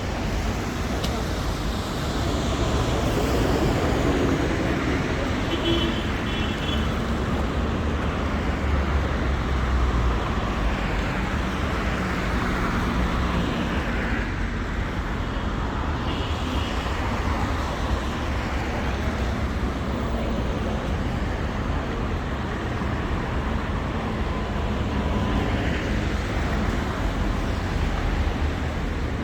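Steady city street traffic: motor vehicles passing one after another over a constant low rumble.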